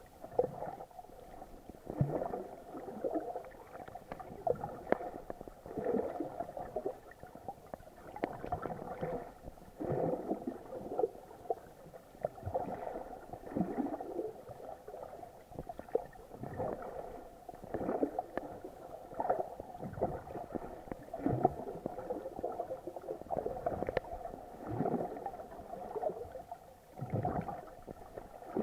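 Water sloshing and gurgling around a sealed action-camera housing while snorkeling: muffled, irregular surges every second or two.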